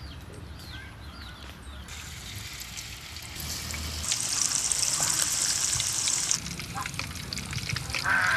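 Hot oil sizzling as food fries, swelling to a loud steady hiss in the middle and easing off after about six seconds, with a few faint chirps at the start.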